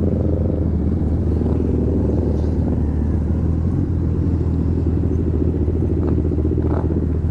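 Motorcycle engine running steadily at cruising speed while riding, with a constant low rumble.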